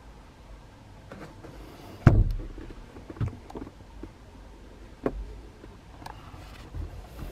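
A heavy thump with a low boom about two seconds in, followed by a lighter knock a second later and a sharp knock about five seconds in.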